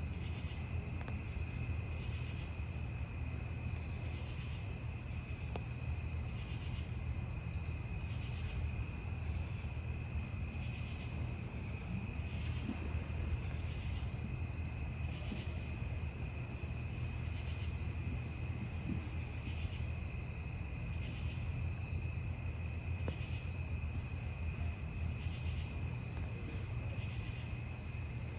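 Crickets trilling steadily over the low, even rumble of a wood fire burning, with a few faint crackles. A higher insect chirp repeats about once a second.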